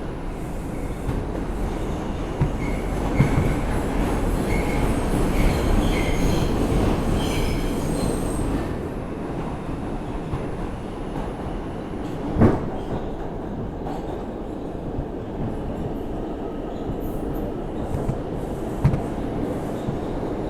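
An R142 subway car running between stations, heard from inside: a steady rumble of wheels on rail with short high wheel squeals in the first half, and one sharp knock about twelve seconds in.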